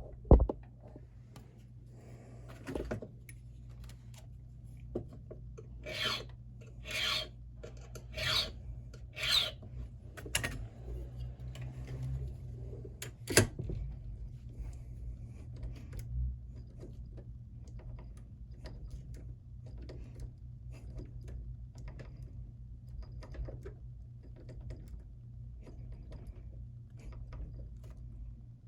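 Hand file cutting the impression mark on a key blank for an SC1 lock cylinder: four strong strokes about six to ten seconds in, then lighter, scattered scrapes and small ticks. A sharp click comes right at the start and another about thirteen seconds in.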